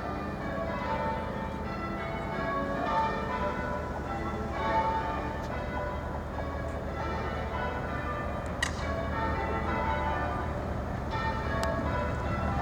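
Bells ringing in a quick, irregular succession of short tones, over a steady low hum.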